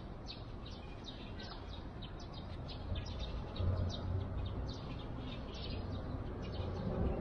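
Small birds chirping repeatedly in short quick calls over a low steady rumble.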